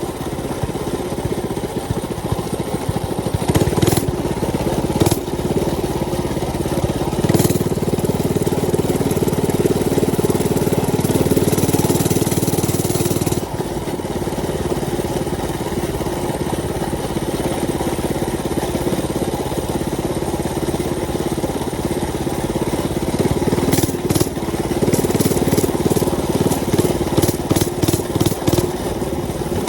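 Mini bike's small engine running as the bike is ridden, louder for several seconds near the middle, then stuttering in a run of quick choppy pulses near the end.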